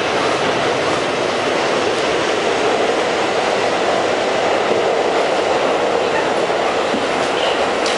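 R68 New York City subway train running along the track, a steady noise of wheels on rail.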